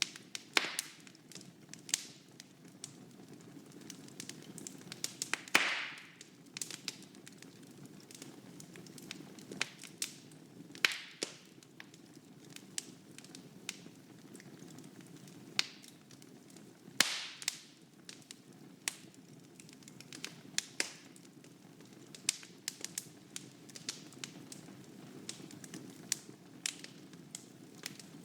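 Wood fire burning in a fireplace: a steady low rush of flame with irregular crackles and sharp pops, the biggest pops about five and a half seconds in and again about seventeen seconds in.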